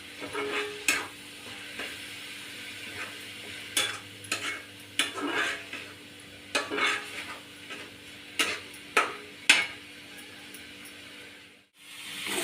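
Onion and ground-spice masala sizzling in hot oil in a kadai while a spoon stirs it, scraping and clinking against the pan every second or so. It is being fried until it turns red.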